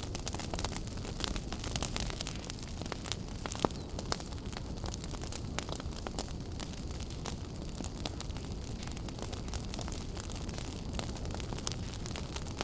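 Wood fire burning in a fireplace: a steady low rumble of flames with frequent sharp crackles and pops, one louder pop about four seconds in.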